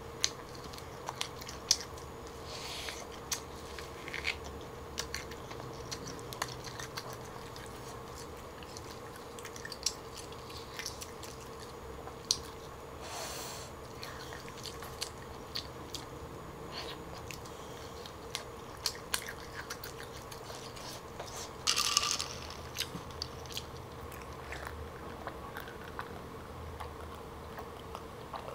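Close-miked chewing and biting of smoked turkey leg meat: a scatter of small wet mouth clicks and smacks, with a few louder bursts.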